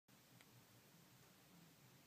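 Near silence: faint room tone with a steady low hum and one tiny tick.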